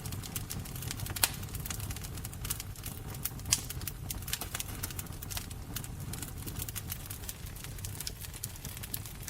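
Wood fire burning with a steady low rumble and irregular crackling, two louder pops about a second in and about three and a half seconds in.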